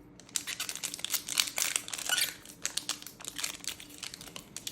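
Trading card booster pack wrapper crinkling and tearing as the pack is opened by hand, a dense rapid crackle starting about a third of a second in.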